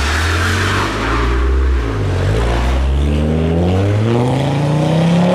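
Car engine accelerating, its pitch climbing steadily for about three seconds, then dropping near the end.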